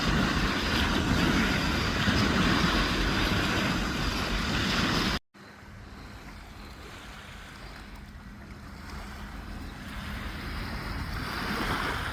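Waves washing on a beach, with wind on the microphone. The sound is loud for about five seconds, cuts off suddenly to a quieter wash, then swells again near the end.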